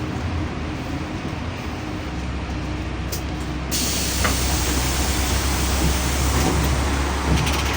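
Interior sound of a LiAZ-5292 city bus: the engine hums steadily, growing stronger about two seconds in. About four seconds in, a steady hiss starts suddenly and runs on.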